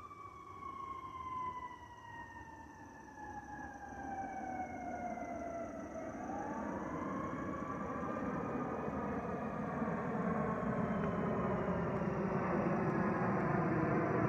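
Jet airliner engines, an Airbus A320's: a whine slides down in pitch over the first six seconds, then a new tone rises as the roar grows steadily louder.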